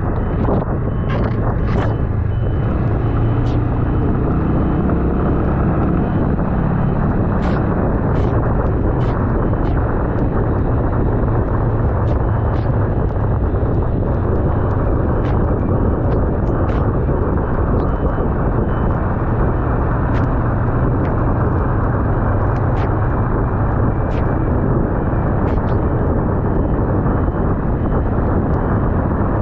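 Motorcycle engine running steadily under heavy wind rush over the microphone while riding, with scattered sharp ticks throughout.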